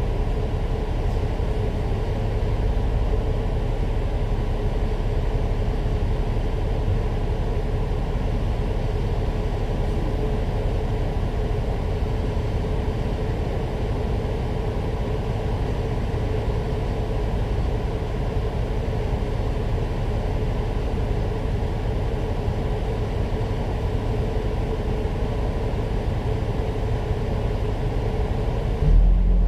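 Citybus bus running at a steady speed: continuous engine rumble and road noise with a steady whine. Right at the end the engine note begins to rise.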